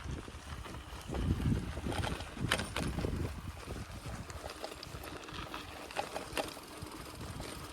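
Wind buffeting the microphone in gusts, most strongly in the first three seconds, with short scattered bird calls from the marsh.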